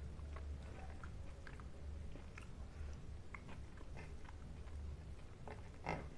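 A person chewing food, with scattered small clicks and a louder click near the end, over a steady low hum.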